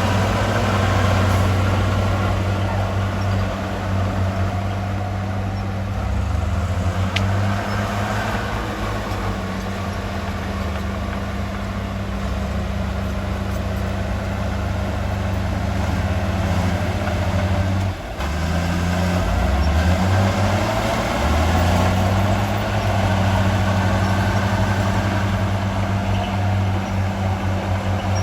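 Heavy diesel engine of earthmoving machinery running continuously, its engine note shifting up and down several times as it works, with a brief dip about two-thirds of the way through.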